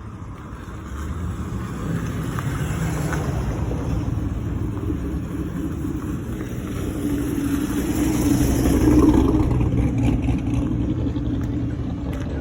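Cars driving past with their engines running, the rumble swelling to its loudest about nine seconds in and then easing off.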